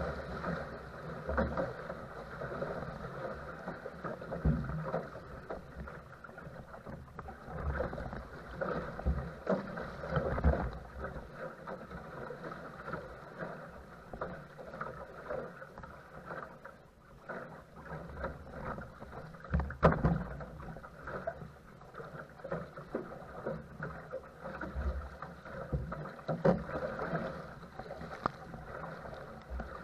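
Wind-chopped water slapping and splashing against a paddle craft as it is paddled through rough chop: irregular splashes with occasional heavier low thumps.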